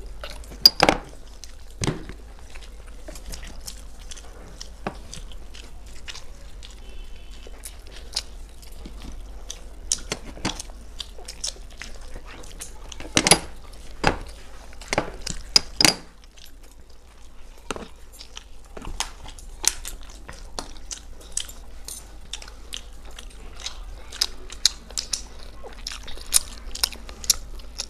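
Two people chewing and biting mouthfuls of steamed chicken momos close to the microphone: scattered wet mouth clicks and smacks at an irregular pace, a few of them sharper, over a faint steady low hum.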